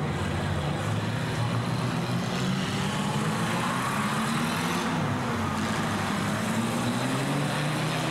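Several banger-racing cars' engines running hard together as the cars race past, their pitch rising and falling as they rev and go by.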